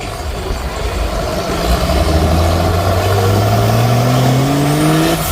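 Mud truck's engine revving, its pitch climbing steadily over the last few seconds, over a constant rushing noise.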